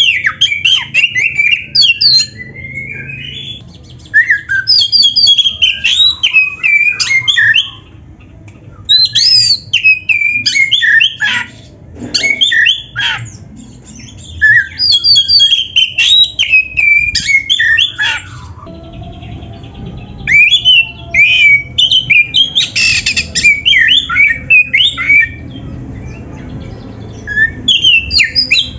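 Oriental magpie-robin (kacer) singing loud, rapidly varied whistles and chatters, in bursts of a few seconds separated by short pauses, over a faint low background rumble.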